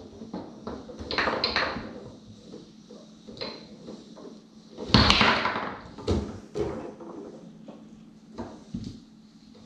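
Foosball play on a Tornado table: the ball clacking off the plastic men and the table walls, and rods knocking, with irregular sharp knocks and the loudest hard knock about five seconds in.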